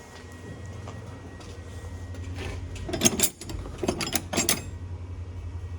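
A handful of sharp metallic clanks and knocks, between about three and four and a half seconds in, from steel hand tools such as a hammer and chisel. A steady low hum runs underneath.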